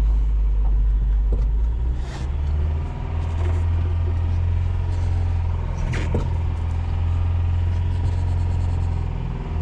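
Carbureted truck engine idling high on choke just after a cold start, a steady deep rumble heard from inside the cab. Two brief knocks sound about two and six seconds in.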